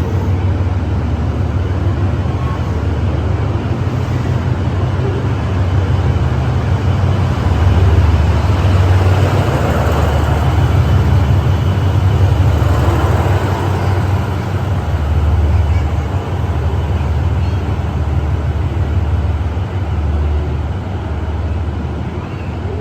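A train running past with a steady low rumble and rushing noise that swells to its loudest about halfway through and eases off near the end.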